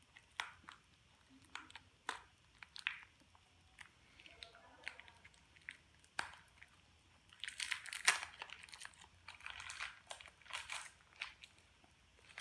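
Plastic wrapping crinkling and small plastic Beyblade parts clicking as they are unpacked by hand: scattered clicks and taps at first, then a busier stretch of crinkling from about seven seconds in.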